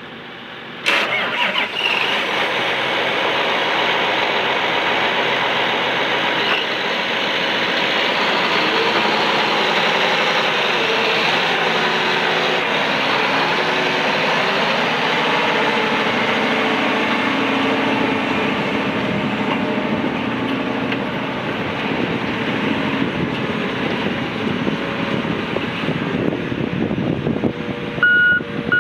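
2018 John Deere 9570RX tractor's diesel engine starting about a second in, then running steadily. Near the end a backup alarm starts beeping.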